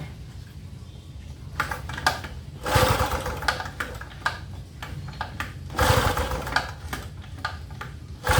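Gasoline inverter generator being pull-started: the recoil cord is yanked three times about three seconds apart, each pull a short rattling burst of the engine cranking over. The engine does not catch, which is typical of a generator that is hard to start after long storage.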